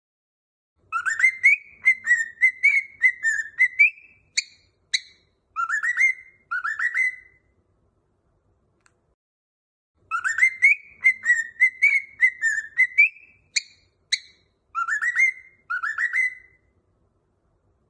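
A whistled tune of short, quick notes ending in a few rising notes, played twice with a pause of about three seconds between: a looped melody for teaching a cockatiel to whistle.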